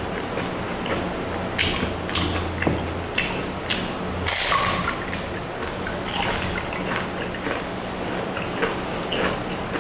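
Close-up eating sounds: a fried lumpia shanghai spring roll is dipped in sauce and bitten, with the loudest crunchy bite about four seconds in, followed by wet chewing and lip-smacking. A steady low hum runs underneath.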